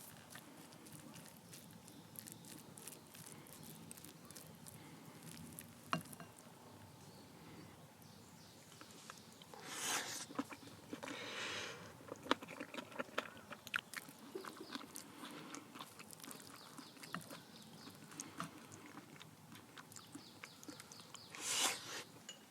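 Quiet chewing and crunching of food, with many small clicks and a few short rustling bursts.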